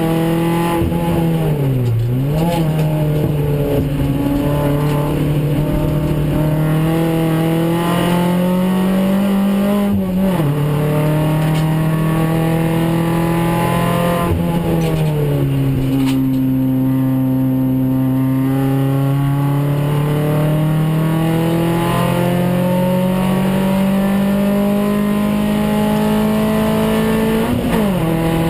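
Renault Clio 16S's 1.8-litre sixteen-valve four-cylinder engine at full load, heard from inside the cabin. The revs climb steadily and dip briefly at each gear change, about two seconds in, near ten seconds and just before the end. There is a longer fall and recovery around fifteen seconds.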